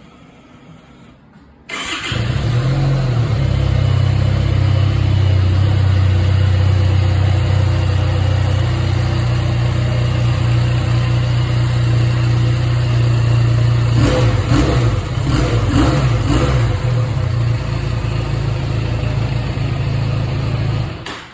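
Harley-Davidson X350 parallel-twin motorcycle engine starting up about a second and a half in, then running at a steady, slightly high warm-up idle, before being shut off near the end. A few short sharp sounds come over the idle about two-thirds of the way through.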